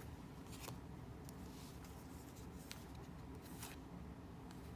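Faint soft swishes of baseball trading cards being slid and thumbed through one at a time, a few scattered strokes over a low steady room hum.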